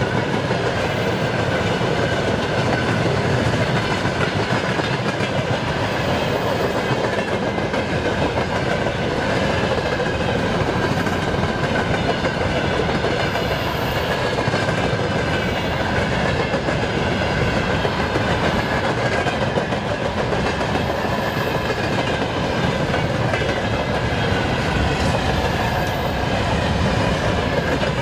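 A train hauled by a VL10U electric locomotive rolling past close by: a steady, loud rumble of wagon wheels on the rails, with faint steady ringing tones above it.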